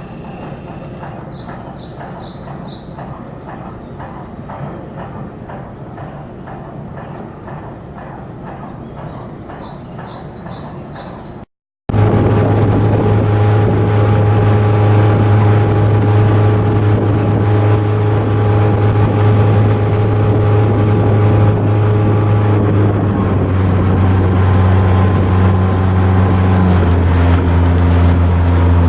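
Cargo ship's diesel engine running with a loud, steady low drone; its pitch shifts a couple of times near the end. Before it, after a sudden cut, a quieter stretch of steady mechanical noise with a few short chirps.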